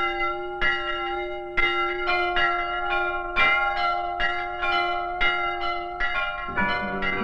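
Bells ringing, a quick, uneven run of struck strokes over a held lower tone. Near the end, guitar music comes in.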